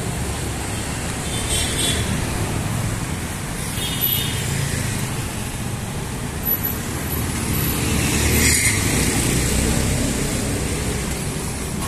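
City street traffic: a steady rumble of passing motor vehicles, growing louder around eight seconds in as a vehicle goes by close, with a few short higher-pitched sounds on top.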